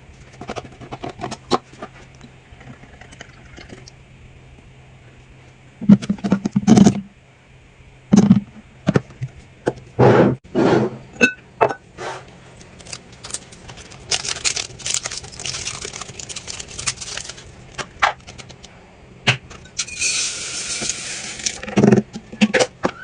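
Containers and packaged food being set into a fridge and handled: a string of clicks, knocks and taps, with a few heavier thuds. Two longer stretches of steady rustling noise, one a little past the middle and one near the end.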